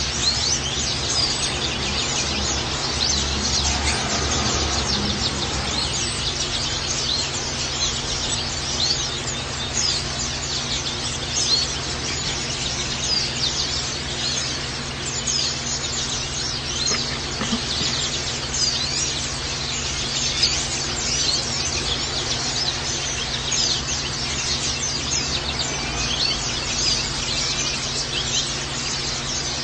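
White-eyes (pleci) chirping and twittering rapidly and continuously in high, thin notes, over a steady background hiss and low hum.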